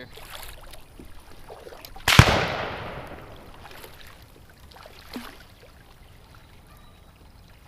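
A single close gunshot about two seconds in: one sharp crack whose echo trails off over about a second.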